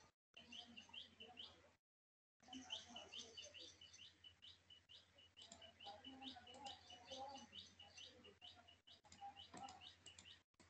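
Faint small-bird chirping: quick, short rising chirps repeated several times a second over a low hum, cutting out to dead silence twice in the first few seconds.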